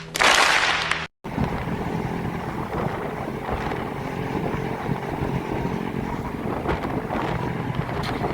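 Wind rushing over the microphone and vehicle engine noise while riding along a highway. A loud gust of wind noise fills the first second, the sound cuts out for a moment, and then steady road and engine noise runs on.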